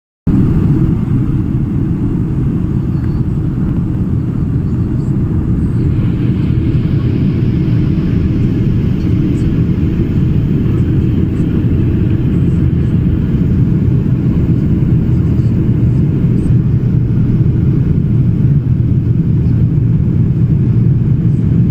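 Steady, loud rumble of an aeroplane, with a higher hiss joining about six seconds in.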